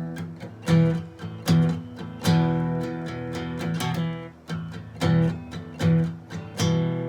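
Acoustic guitar strumming chords, a sharp stroke roughly every second with each chord left ringing between strokes: the instrumental intro of a song, before the vocals come in.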